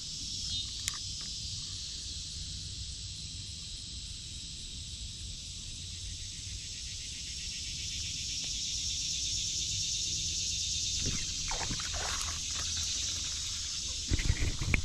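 Steady high-pitched insect chorus, like crickets, over a low rumble, a little louder in the middle. A few brief swishes come near the end, then loud low knocks.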